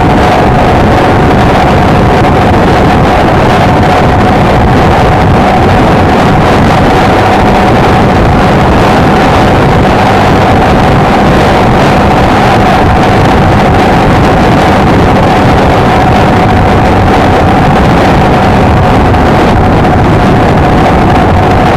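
Honda XLR125R's single-cylinder four-stroke engine running steadily at cruising speed, heard on board under heavy wind noise on the microphone, with one steady whining tone through it.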